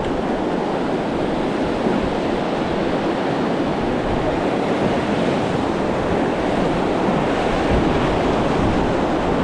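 Rushing water of river rapids, a loud, steady wash of noise.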